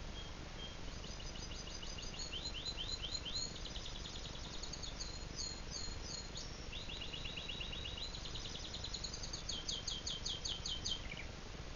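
Domestic canary singing: a long song made of phrases of rapid repeated high notes, each phrase shifting in speed and pitch, ending shortly before the end.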